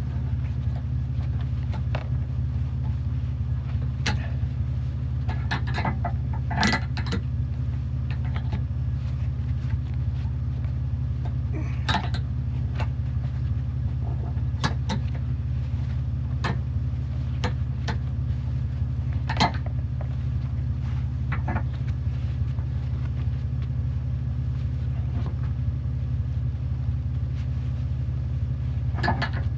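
A vehicle engine idling steadily, a constant low hum, with scattered short clicks and knocks every few seconds.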